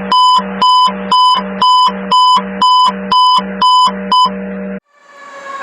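Electronic alarm beeping in an even hi-lo pattern, about two high beeps a second. It cuts off suddenly near the end, and a fire engine's siren and horns fade in.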